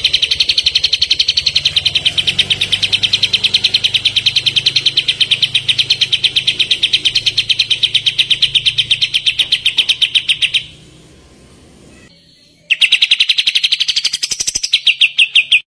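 Kapas tembak songbird giving its rapid-fire 'tembakan' trill, a long fast volley of identical high notes, several a second. It stops for about two seconds, then starts again and speeds up near the end before cutting off.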